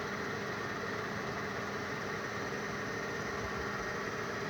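12-volt DC water pump motor running steadily, an even hum with a faint constant tone.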